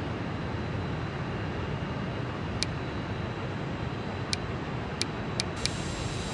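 Steady rushing noise of a Boeing airliner landing in strong wind, with five sharp clicks from about two and a half seconds in.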